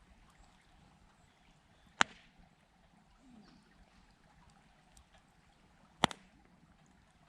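Two sharp pops about four seconds apart, typical of wood popping in a campfire, over a faint steady background hiss.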